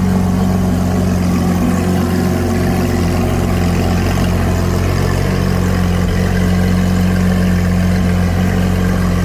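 Supercar engine idling with a steady, even exhaust note that holds without revving.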